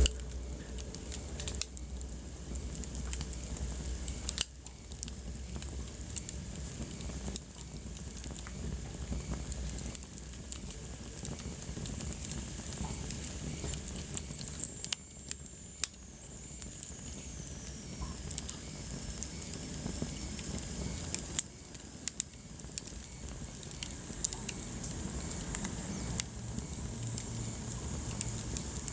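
Wood fire burning in a fireplace: a steady soft hiss and low rumble with scattered crackles and sharp pops. About halfway through, a faint thin high whistle slides down in pitch.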